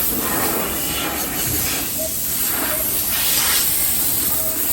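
Car wash tunnel spray jets hissing steadily, water and air noise that swells and eases a few times.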